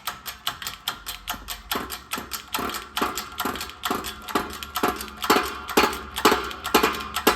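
Steel hammer blows on a bearing driver disc, seating a carrier bearing onto a Sterling 10.5 differential carrier. The sharp metallic knocks come about four a second, each with a short ring, and grow louder toward the second half.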